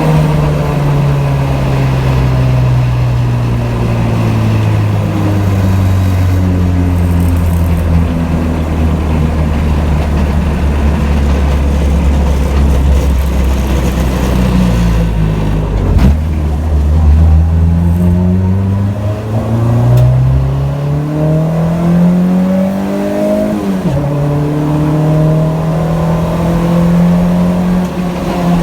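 Honda D-series four-cylinder engine through an HKS Hi-Power exhaust while driving. The revs fall slowly for about fifteen seconds, then climb again under acceleration. About two-thirds of the way through they drop sharply at a gear change, then settle to a steady cruise.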